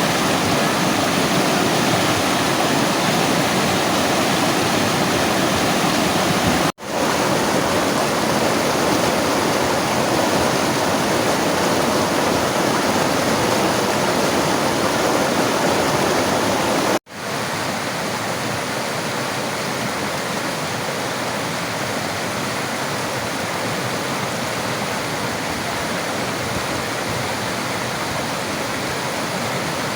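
Steady rushing of river water, flowing without a break except for two very short dropouts, about seven seconds and seventeen seconds in; after the second it goes on a little softer.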